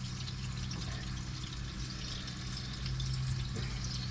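Sucuk sausage sizzling in a frying pan: a steady crackling hiss over a low steady hum.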